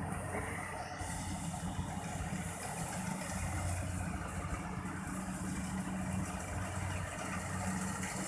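Engine of a Kubota rice combine harvester running steadily, a low, even hum.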